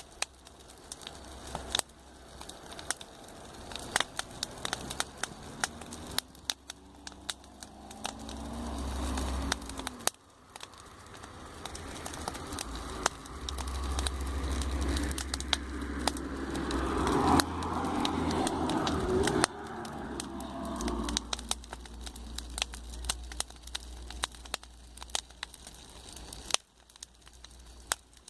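Campfire crackling and popping with frequent sharp snaps. Twice a low rumble swells up and then cuts off, about six seconds in and again from about twelve to twenty seconds in: traffic passing on the road.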